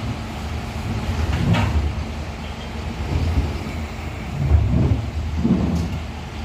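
Isuzu FVR garbage truck's diesel engine running with a steady low rumble, with a sharp knock about a second and a half in and a few dull thumps near the end.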